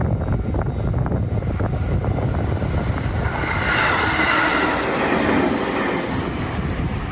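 A train passing close by: a low rumble with a few wheel clicks early on, then a rushing noise that swells about four seconds in and fades toward the end.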